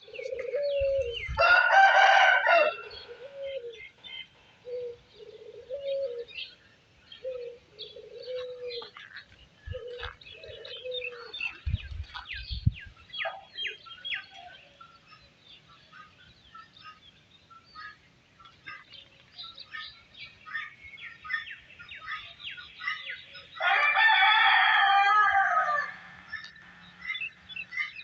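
A rooster crows twice, once a few seconds in and again near the end, over small birds chirping. A run of short low calls repeats through the first ten seconds.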